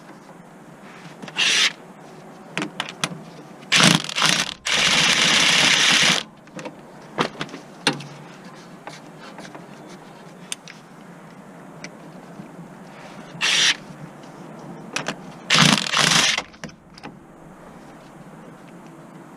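Car repair tool noises: several short, loud, noisy bursts, the longest about a second and a half, with scattered clicks between them over steady background noise.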